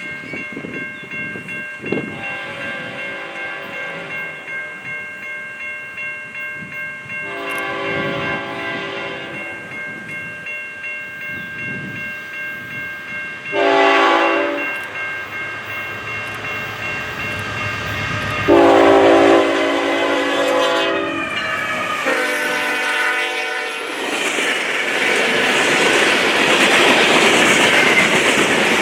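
Approaching CN diesel freight locomotive sounding its horn in four blasts: two long, one shorter, then a long and a medium one. The train then rushes past at speed with a loud, rising roar of wheels on rail.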